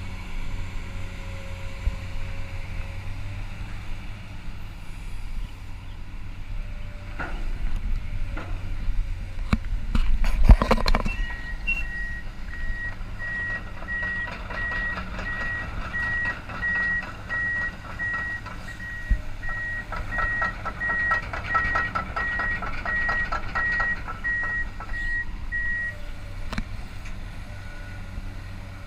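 Komatsu PC200-8 long-reach excavator with its diesel engine running steadily; a few loud metal clanks about ten seconds in, then its travel alarm sounds a long run of evenly repeated high beeps for about fifteen seconds over a fast rattling.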